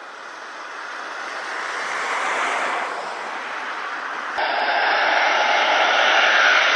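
Jet noise from a B-1B Lancer's four General Electric F101 turbofan engines as the bomber comes in to land, a rushing roar growing steadily louder as it nears. There is a sudden jump in loudness about four seconds in.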